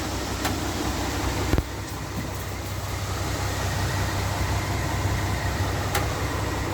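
An engine running steadily with a low hum, and a single sharp knock about a second and a half in.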